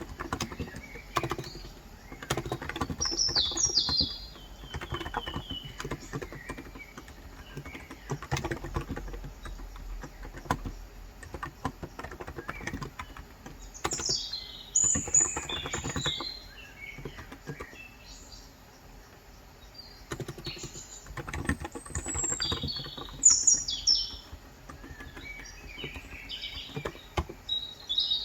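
Typing on a Cox Endeavor electro-capacitive (35 g, tenkeyless) keyboard, a run of key clicks that thins out for a few seconds past the middle. Small birds chirp outside in short bursts several times throughout.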